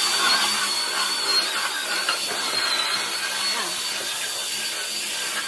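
Cordless drill spinning a drill brush scrubbing the truck's seat upholstery: a steady high motor whine that dips slightly now and then, over a hiss of bristles on fabric.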